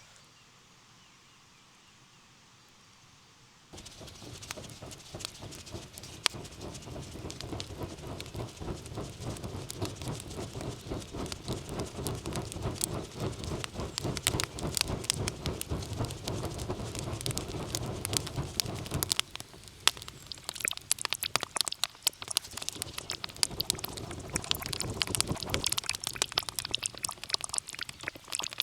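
Rain pattering, a dense, irregular patter of drops that starts suddenly about four seconds in after a quieter stretch.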